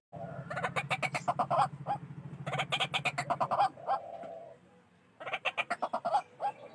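White-breasted waterhen calling: three runs of rapid, harsh repeated notes with a short lull between the last two. A low pulsing buzz runs beneath the first half.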